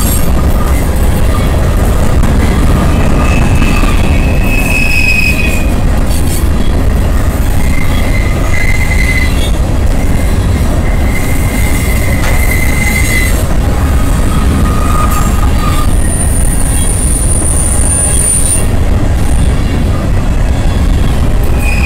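Freight train of covered hopper cars rolling past close by: a loud, steady rumble of steel wheels on rail, with short high-pitched wheel squeals coming and going several times, the highest near the end.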